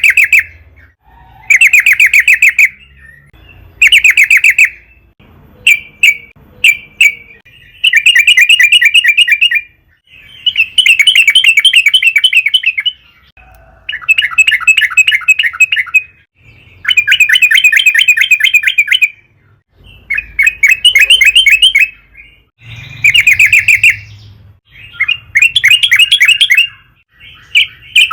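Yellow-vented bulbul (trucukan) singing: loud, rapid bubbly phrases of quick chattering notes, each lasting one to two seconds, repeated about a dozen times with short pauses between.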